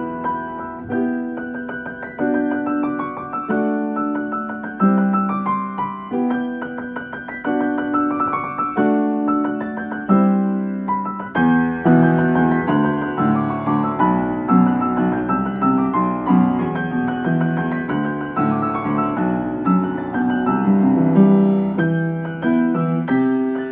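Solo piano playing a slow, gentle original composition, notes struck one after another and left to ring over low sustained chords.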